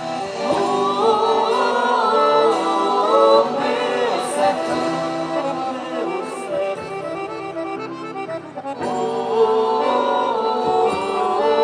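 Accordion-led music for a quadrilha junina dance, with melody lines moving over sustained chords and a voice that may be singing along.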